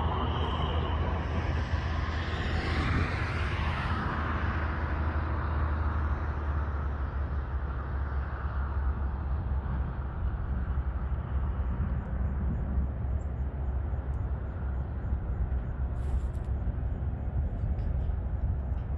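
Airbus A320neo jet engines running, with a whine that falls in pitch over the first few seconds and then eases off over a steady low rumble.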